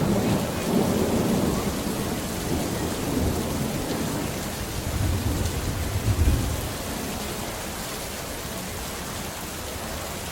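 Rolling thunder over steady heavy rain. The rumble builds from the start, is loudest about six seconds in, then dies away, leaving the steady hiss of rain.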